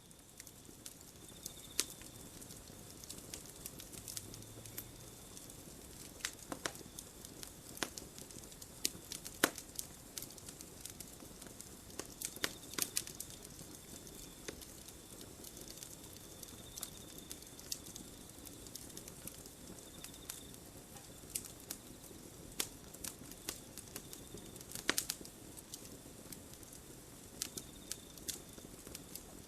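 Campfire burning: burning wood crackling and popping in irregular sharp snaps over a soft steady hiss, with a few much louder pops scattered through. A faint high tone comes and goes in the background.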